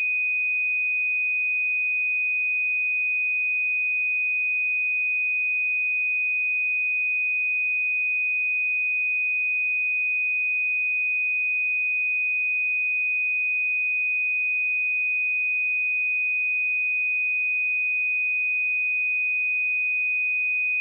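A pure 2493 Hz sine-wave test tone, one steady high-pitched whistle-like note at constant level, with no other sound.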